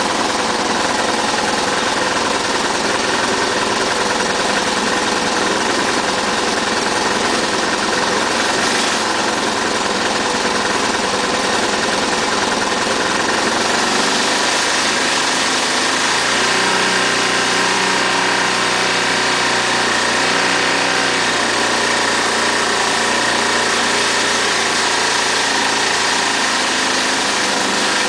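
Lawn mower's small engine, fitted with a Pantone reactor that feeds it water vapour, running steadily. A deeper hum joins the engine note about halfway through.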